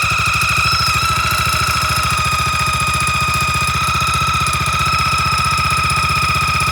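Predator 301cc single-cylinder engine idling steadily just after start-up, its exhaust pulses running at an even rate, with a steady high whine over them.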